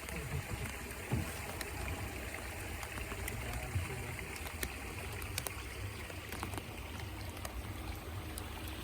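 Outdoor water ambience around a small boat on a river: a steady hiss of moving water with a low rumble underneath and a few faint scattered ticks.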